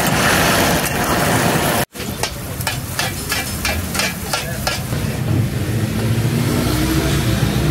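Food frying with a sizzle, cut off abruptly about two seconds in, followed by a run of sharp taps, about three a second, over a low background hum.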